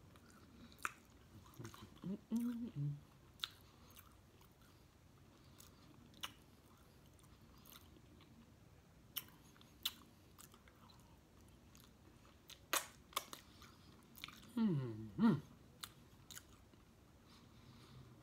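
Close-up eating sounds of a person eating snow crab: chewing, with scattered sharp clicks and smacks. Twice there is a short low hum, about two seconds in and again near the end.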